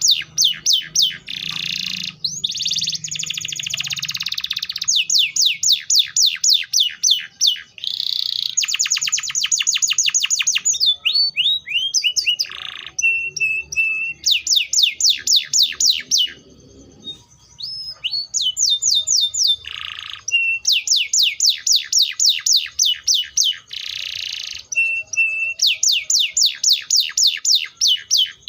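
Domestic canary singing a long song of rapid trills: runs of repeated sweeping notes, some at about six a second and others much faster, with a short break about two-thirds of the way through.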